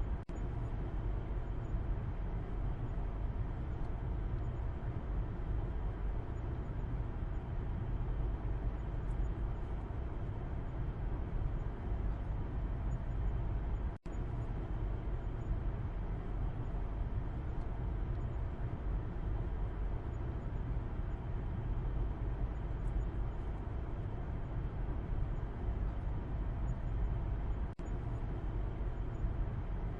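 Steady low road rumble and hum inside a moving car's cabin, as heard from the back seat. The sound cuts out for an instant three times, about every 14 seconds.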